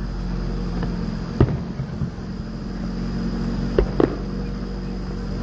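Distant fireworks shells bursting: one sharp bang about a second and a half in and two more in quick succession near the end, over a steady low hum.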